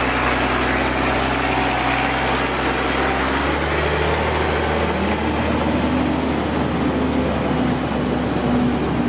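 Heavy truck engine running steadily, then revving up about five seconds in and holding at higher revs.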